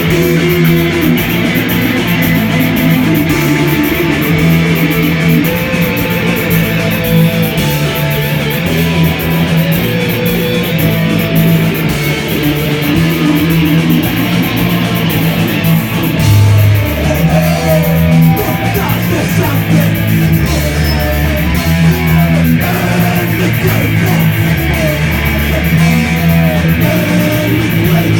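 Rock band playing an instrumental passage: loud electric guitar over bass, with drums and cymbals keeping a steady beat.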